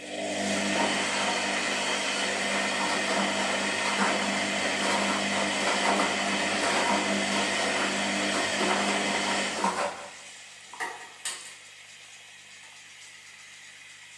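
Washing machine running, a steady whirring, rushing noise over a motor hum, which stops abruptly about ten seconds in. Two short knocks follow, then only a faint hum.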